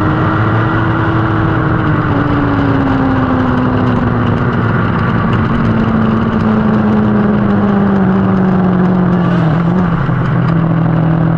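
Lightning sprint car's 600cc motorcycle engine running, its pitch sinking slowly and steadily as the revs come down, then levelling off near the end.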